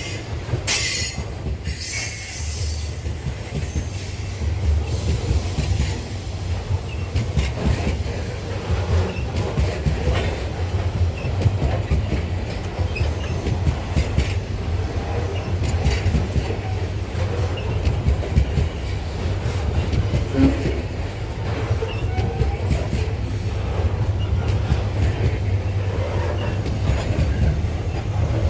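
Loaded grain freight wagons rolling past: a steady low rumble with wheel clacks over the rail joints. Now and then there is a brief high wheel squeal.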